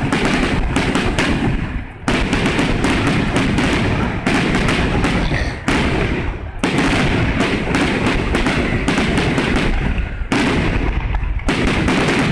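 Fireworks display: a dense, continuous barrage of sharp bangs and crackles, dipping briefly about 2, 6 and 10 seconds in before going straight on.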